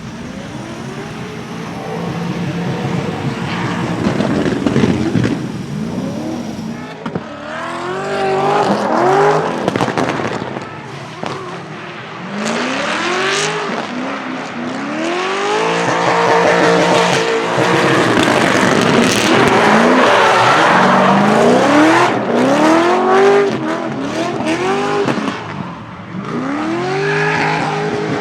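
BMW E30's swapped LS7 427 V8 revving up and down again and again while drifting, with tyres squealing and sharp crackles from a backfire/crackle tune.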